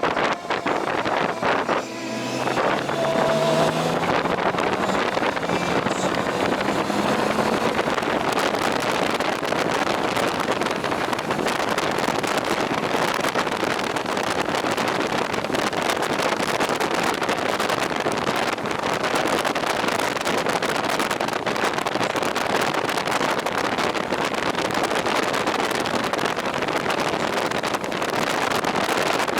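Riding a motorcycle: heavy wind noise on the microphone over the engine, whose pitch rises in steps for a few seconds near the start as it accelerates.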